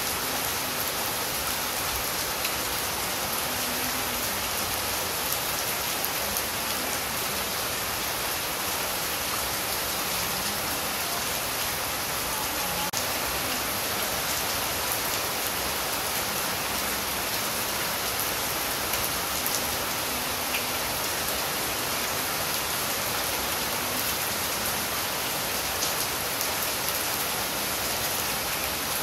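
Steady rain falling on leafy foliage: an even hiss with faint scattered drop ticks.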